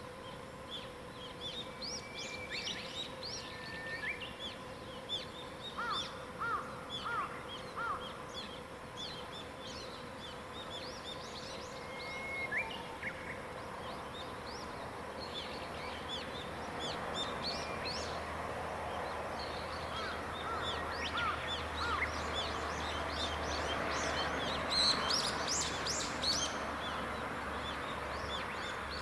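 Wild songbirds chirping and singing, several overlapping short calls and trills, over a faint steady hum. About halfway through, a broad rushing noise with a low rumble builds up beneath the birdsong.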